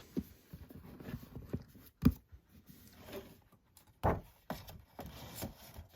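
Light handling noise of a boxed disc set and its cases being moved about, soft rustling with two short knocks, one about two seconds in and one about four seconds in.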